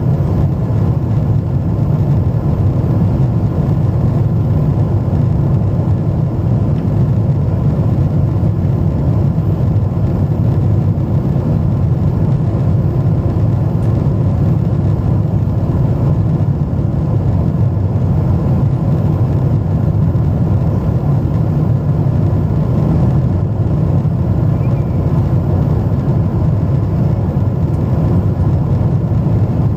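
Jet airliner cabin noise in flight: a steady low rumble of engines and rushing air that does not change.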